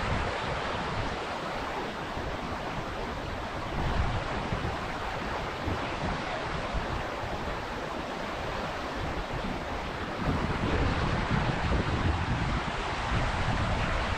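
Steady rush of a waterfall, with wind buffeting the microphone in low gusts that get heavier about ten seconds in.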